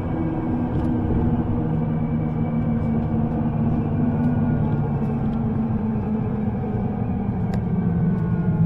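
Underground train running between stations: a steady rumble with a low, even hum of several tones, which shift slightly near the end.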